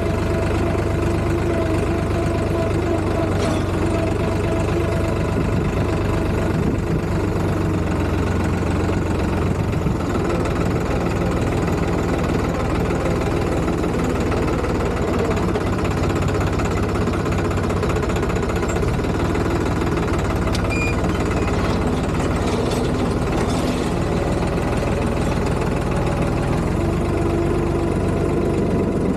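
Tractor diesel engine running steadily with a fast, even chugging.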